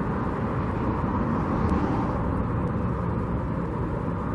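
Wind blowing across the microphone outdoors: a steady rushing noise that flutters in level, over a low rumble.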